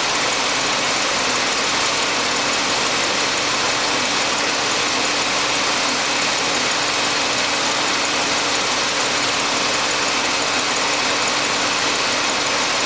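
Mercury Sable's engine idling steadily with the air conditioning running while the A/C system is charged with refrigerant from a can: an even, unchanging running noise.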